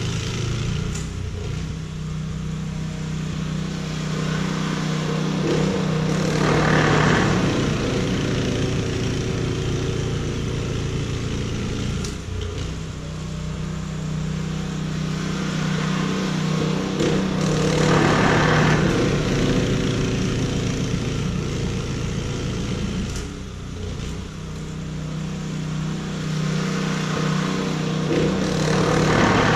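An engine running steadily, its note swelling three times, about every eleven seconds, with a rush of noise at each swell.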